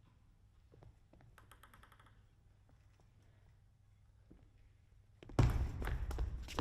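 A hushed table tennis hall with scattered faint taps for about five seconds. Then, near the end, a sudden loud burst of crowd noise with dense clapping and clatter.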